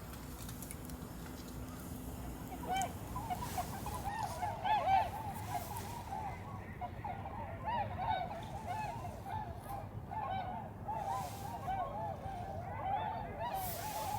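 A flock of swans calling, many short honking calls overlapping in a continuous chorus that starts about three seconds in.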